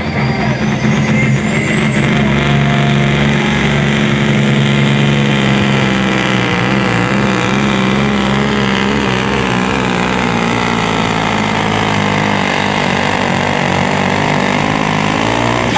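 Volvo FH16 pulling truck's straight-six diesel running hard under load during a pull, with a high whine that rises in pitch over the first few seconds and then holds.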